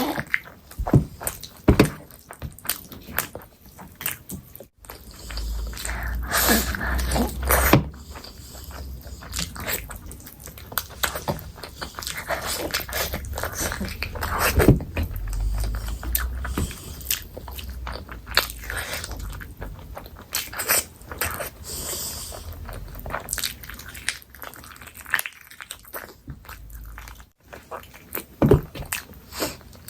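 Close-miked eating: a person chewing and biting food, with irregular wet mouth clicks and smacks. A low rumble sits underneath through much of the middle.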